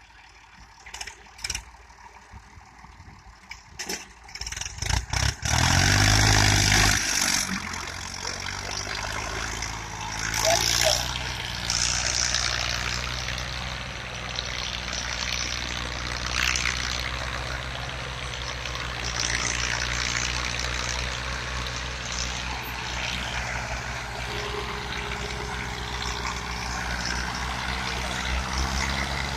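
Tractor diesel engine starting about five seconds in, with a loud surge as it catches, then running steadily. Faint clicks and knocks come before it starts.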